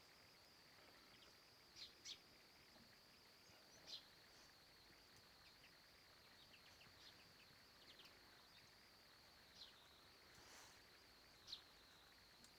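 Faint countryside ambience: a steady high-pitched insect drone, with short bird chirps breaking in every few seconds.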